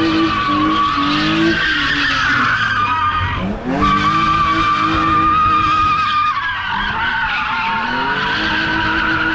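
A car engine held at high revs while the tyres squeal in a burnout, loud and unbroken. The pitch dips sharply about three and a half seconds in, then climbs back up.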